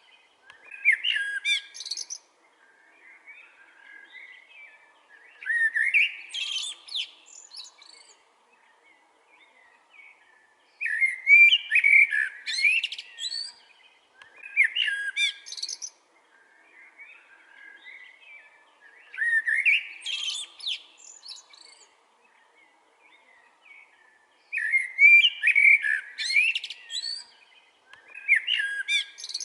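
Blackbird singing: varied phrases of whistled notes and twitters, each a second or two long, repeated about every four to five seconds, with softer twittering in the gaps.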